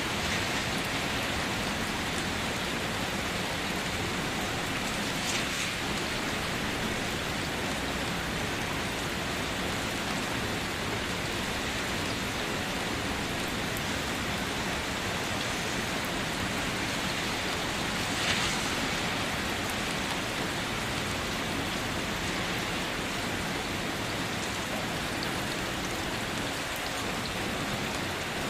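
Steady rain falling on a surface, an even hiss, with a brief louder spatter about five seconds in and again about eighteen seconds in.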